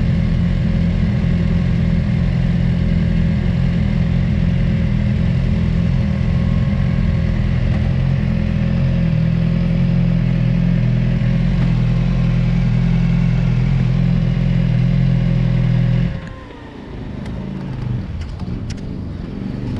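BMW motorcycle engine idling steadily close by, then switched off about sixteen seconds in, its note falling away as it stops.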